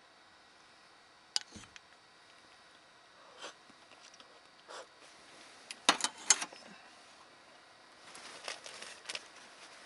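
Irregular sharp clicks and knocks, a tight cluster of them about six seconds in, then a short rustle near the end.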